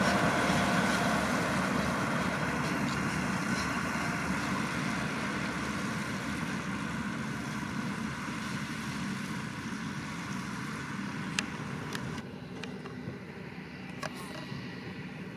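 Massey Ferguson 7620 tractor engine running under load with a McHale V660 baler working behind it, the sound steadily fading as the rig moves away. A few sharp clicks stand out near the end.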